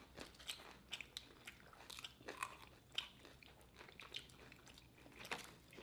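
Faint close-up chewing of crispy fried chicken: irregular soft crunches and wet mouth clicks, with a sharper crunch about three seconds in and another near the end.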